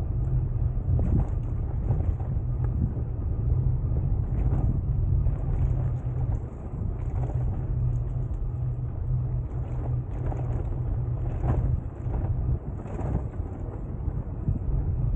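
Steady low rumble of a moving bicycle, tyres on the path and wind on the microphone, with frequent small knocks and rattles from bumps.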